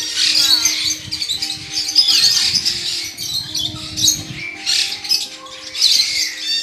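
Many birds chirping and squawking in quick, overlapping calls, over background music with steady held notes.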